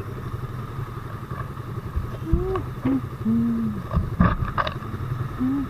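Motorcycle engine running at idle in stopped traffic. A few short, low hooting tones and some sharp knocks sound over it.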